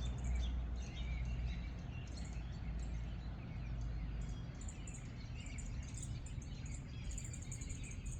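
Many small birds chirping and calling at once: a dense, overlapping scatter of short high chirps. Under them runs a constant low rumble.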